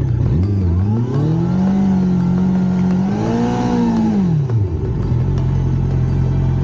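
Motorcycle engine revved under load while the bike churns in deep mud: the revs climb and hold for a few seconds, rise once more, then drop back to a steady idle about five seconds in.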